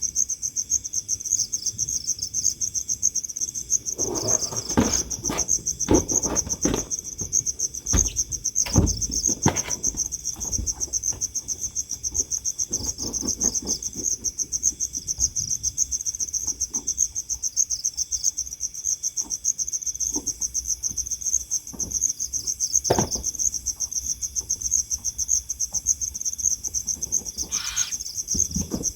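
Crickets chirping in a steady, rapidly pulsing high-pitched chorus. Scattered knocks and rustles come between about 4 and 10 seconds in and once more later, with a short call near the end.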